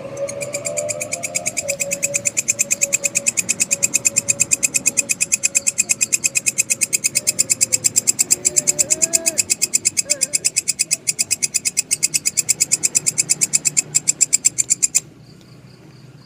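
A grasshopper-type insect (belalang) stridulating: a rapid, evenly pulsed high-pitched buzzing chirp, several pulses a second, that stops suddenly about a second before the end. A faint wavering tone sounds underneath.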